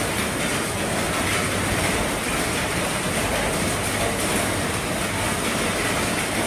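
Heavy rain falling on the roof of an RV: a dense, steady patter.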